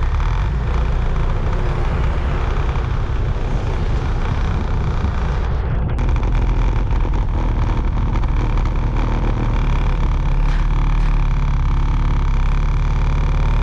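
Motorbike riding along at road speed: steady engine and road noise with a heavy low rumble that holds even throughout.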